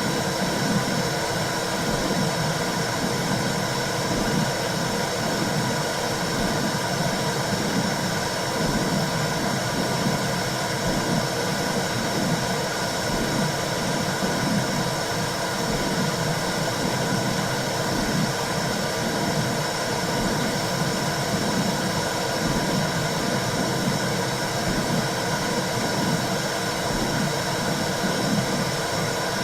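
Womb-sound white noise for calming a baby: a steady rushing hiss with a low whooshing pulse repeating about once a second, like a mother's heartbeat and blood flow heard from inside the womb.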